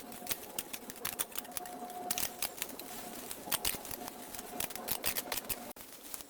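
Rapid, irregular crackling and clicking, like dry leaves and stems being handled or snipped.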